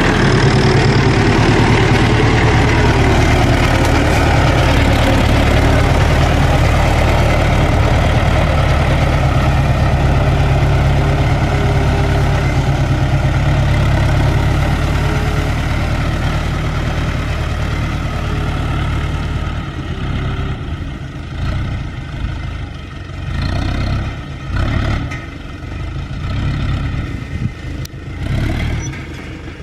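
Landini tractor's diesel engine running steadily at a constant note, then turning quieter and uneven, rising and falling, for the last ten seconds or so.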